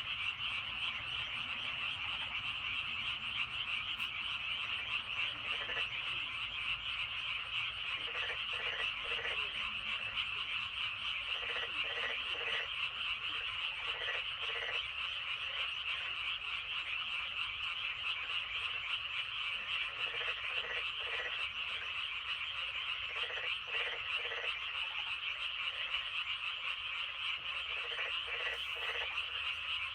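A dense chorus of many frogs calling together from a flooded rice paddy, a continuous high massed trilling, with lower croaks breaking through in short clusters every second or two.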